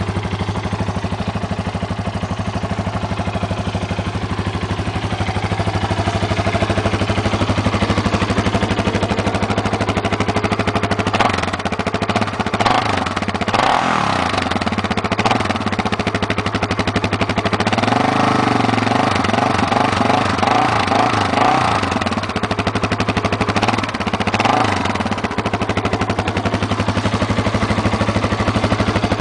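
Yamaha Warrior 350 ATV's single-cylinder four-stroke engine running steadily after a cold start, its speed rising and falling back a few times in the middle stretch.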